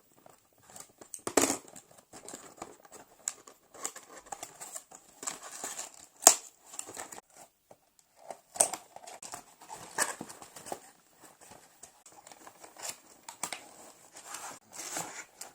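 Toy packaging being opened by hand: irregular crinkling and tearing of cardboard and plastic, broken by sharp clicks and snaps, the loudest about a second and a half in, about six seconds in and about ten seconds in.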